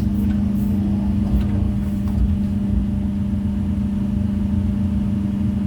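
Heavy-equipment diesel engine running steadily, a constant drone over a low rumble.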